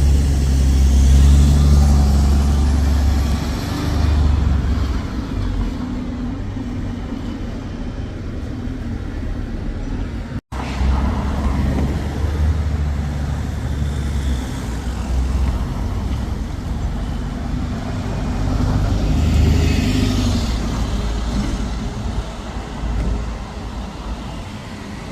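Road traffic with heavy engine rumble from buses and other vehicles, swelling and easing as they pass, broken by a brief cut about ten seconds in.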